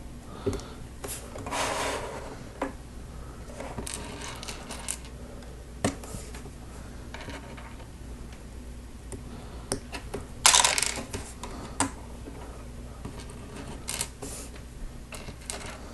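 LEGO plastic pieces clicking and clattering as they are handled, with scattered sharp clicks and a few short rattling rustles, the loudest a little past halfway.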